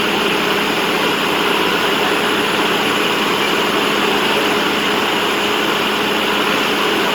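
Fire truck engine running steadily at a constant speed, a continuous hum with no change in pitch or level.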